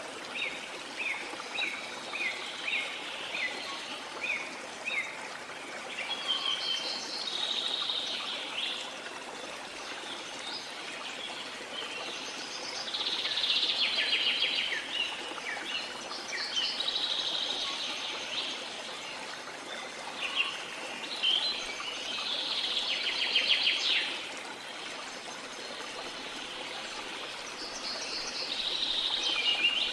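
Birds singing over the steady rush of a waterfall. About eight short falling notes come in the first five seconds, then phrases of fast, trilled song recur every few seconds.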